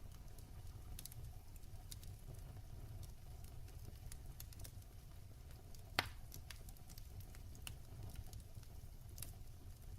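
Fireplace fire crackling: scattered sharp pops over a low, steady rumble of the flames, with one louder pop a little past halfway.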